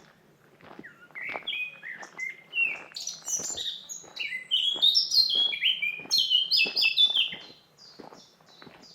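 A songbird singing a fast run of short down-slurred notes, loud from about a second in until near the end, over footsteps walking at an even pace on a forest path.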